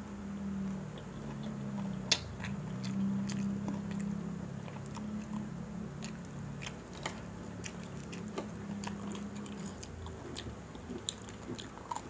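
Close-up eating sounds of crispy pata (deep-fried pork knuckle) with rice: chewing and biting with scattered sharp clicks and crunches, one louder crack about two seconds in. A low steady hum sits under most of it and stops near the end.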